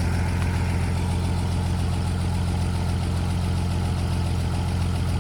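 1950 Chevrolet 4400 dump truck's Stovebolt inline-six engine idling steadily and smoothly.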